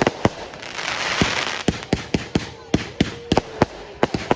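Fireworks going off in a rapid, irregular string of sharp bangs, with a hissing crackle swelling about a second in.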